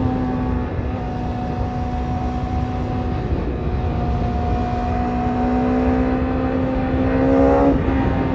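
BMW S1000RR inline-four running through an Akrapovic carbon exhaust, holding steady revs with the pitch creeping up, rising faster near the end and then briefly breaking and dropping.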